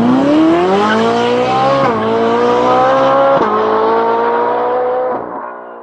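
A car engine accelerating hard, its pitch climbing and then dropping sharply at two gear changes, about two and three and a half seconds in, before holding steady and fading out near the end.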